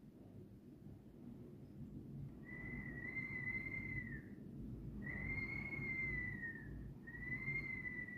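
Strong sea wind whistling: three long high whistles at nearly one pitch, each lasting a couple of seconds and tailing off slightly at the end, beginning a couple of seconds in, over a steady low rush of wind.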